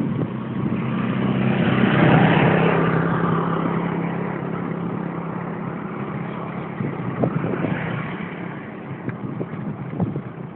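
A motor vehicle engine passing close by, rising to its loudest about two seconds in and fading away, over wind rush and the rattle of a mountain bike on rough ground.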